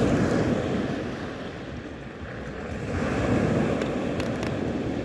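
Sea surf washing onto the shore in two swells, one at the start and a second about three seconds in, each fading away.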